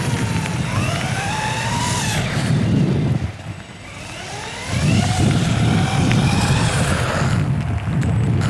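Electric motor of a Traxxas Raptor R VXL RC truck, heard from a microphone mounted on the truck, whining up and down in pitch under throttle over tyre and drivetrain rumble. The throttle drops off about three seconds in, then comes back about a second and a half later. A rattle runs through it from the truck's broken front bumper.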